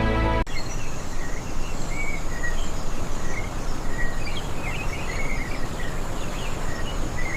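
Outdoor field ambience: a steady hiss with small birds chirping in short, scattered calls and a thin, steady high insect buzz. A music track cuts off abruptly about half a second in.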